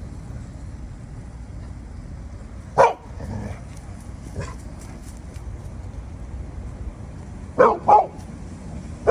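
A dog barking in single short barks: one sharp bark about three seconds in, a fainter one a little later, then two quick barks near the end, over a steady low rumble.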